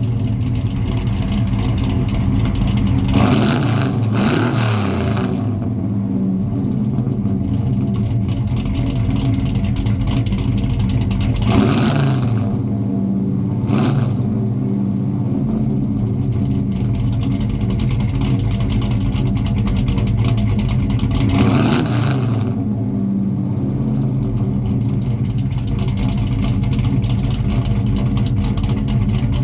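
1998 Dodge Ram 1500's 5.9 V8, exhausting through long-tube headers, no catalytic converters, 2.5-inch true duals with an H-pipe and Black Widow Angry Housewife mufflers, idling steadily. It is revved three times (at about three seconds, twelve seconds and twenty-one seconds), with a short blip of the throttle just after the second rev.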